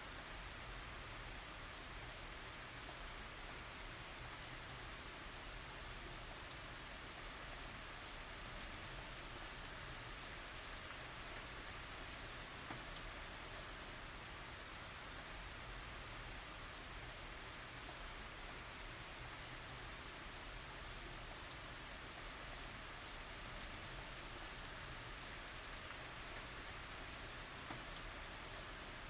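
Steady tropical rain falling, a continuous even hiss with the patter of many drops on surfaces.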